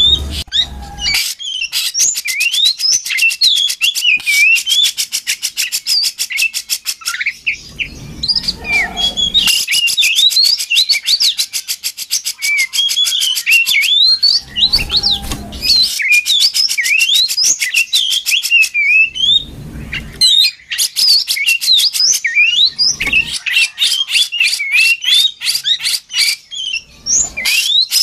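Oriental magpie-robin (kacer) singing a continuous, varied song: quick whistled notes gliding up and down, mixed with long runs of fast, rattling clicks. A few brief low rumbles come and go underneath.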